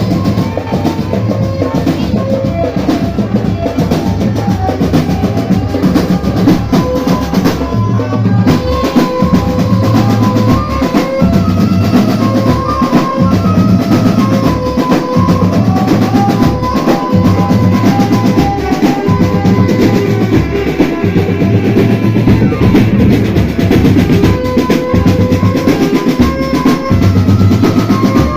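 Marching drum band playing: bass drums and snare drums keep a regular beat under a repeating melody line.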